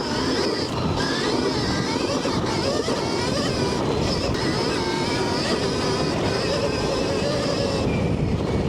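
Stark Varg electric dirt bike being ridden over a wet trail: a faint motor whine rising and falling with the throttle under steady rolling noise from the tyres and chassis.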